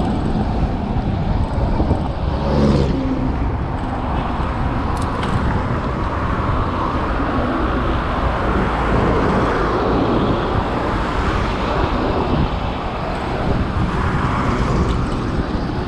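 Steady road and traffic noise with a heavy low rumble, picked up from a bicycle on a climb, with a vehicle briefly louder about two and a half seconds in.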